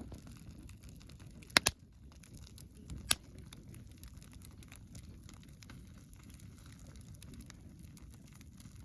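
Campfire crackling, with scattered small ticks over a low rumble, and sharp pops: two close together about a second and a half in and one more about three seconds in.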